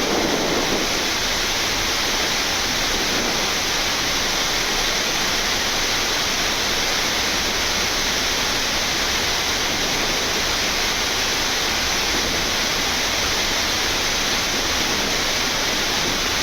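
Steady rushing hiss of Boeing 787-9 flight-deck noise, the air conditioning and idling engines heard inside the cockpit while taxiing, even and unchanging throughout.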